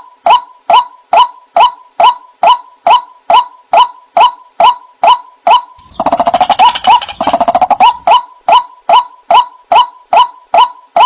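White-breasted waterhen (ruak-ruak) calling: a steady series of sharp notes, a little over two a second, broken about six seconds in by a rapid chattering bout lasting about two seconds before the steady notes resume.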